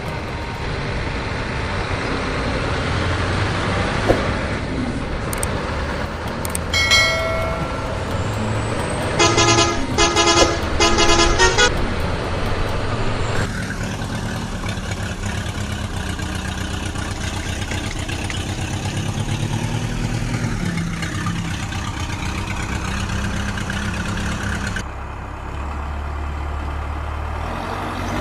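A truck engine running steadily, with a horn sounding once about seven seconds in and then several short honks in quick succession between about nine and twelve seconds.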